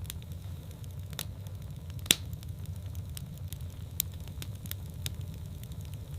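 Wood fire burning in a fireplace: a steady low rumble of the flames with scattered crackles and sharp pops, the loudest pop about two seconds in.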